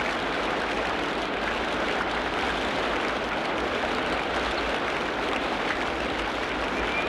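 Tropical rainforest ambience: a dense, steady hiss like rainfall on foliage, even in level, with no distinct animal calls standing out.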